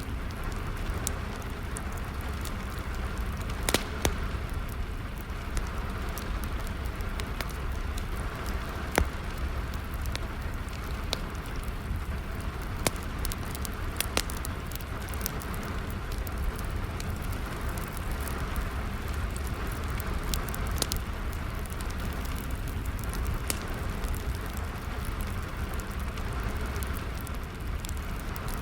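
Wood fire crackling and popping over a steady patter of rain. There are frequent sharp snaps, the loudest about four and nine seconds in, over a constant low rumble.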